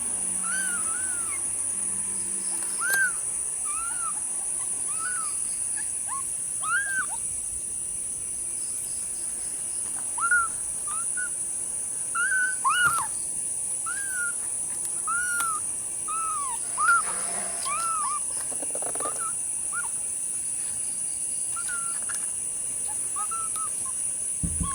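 Kittens mewing: a steady run of short, high, arching mews, one or two a second, some overlapping, a few louder than the rest. A steady high-pitched whine runs underneath.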